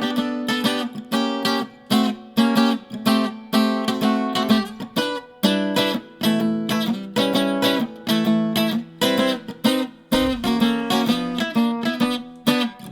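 Acoustic guitar strumming chords in a steady rhythm, the instrumental intro to a song.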